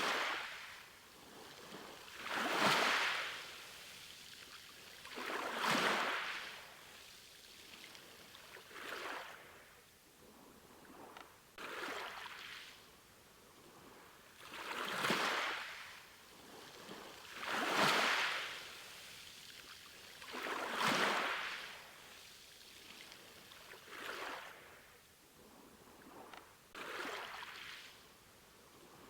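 Sea waves washing in and out in a steady rhythm. A hissing surge swells and fades about every three seconds.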